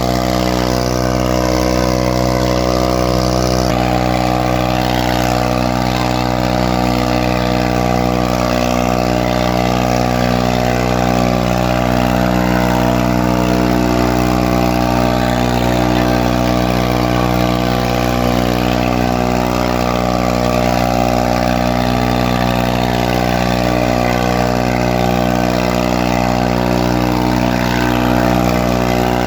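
Farmtrac 45 tractor's diesel engine running at a steady speed, an even drone that neither rises nor falls.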